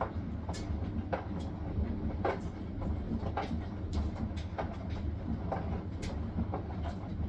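Hisense washing machine on its spin cycle: a steady low rumble from the turning drum, with irregular clicks and knocks about one or two a second.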